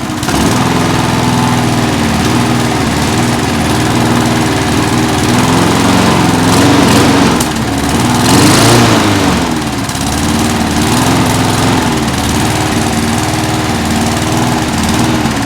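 Klippo lawn mower's Briggs & Stratton engine running after a primed start, its speed wavering up and down, with one brief rise and fall in revs about halfway through.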